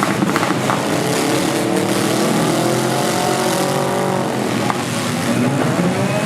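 Engines of four-cylinder demolition derby cars running and revving, their pitch rising and falling, with a few sharp knocks near the start.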